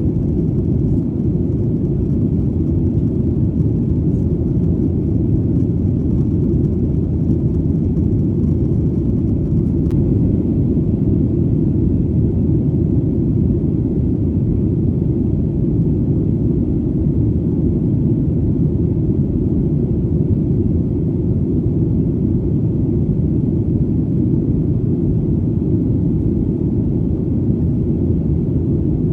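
Airplane engine drone in flight: a steady, deep rumble that holds constant in level throughout.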